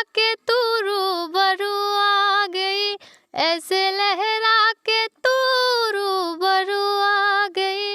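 A high, clear solo voice singing without accompaniment, holding long notes with short ornamental bends and brief breaths between phrases.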